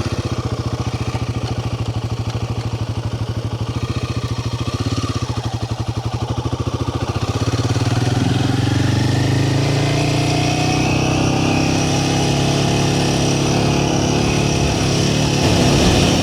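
Royal Enfield Himalayan 450's single-cylinder engine running at low revs, then pulling away about halfway through, its note rising as it speeds up.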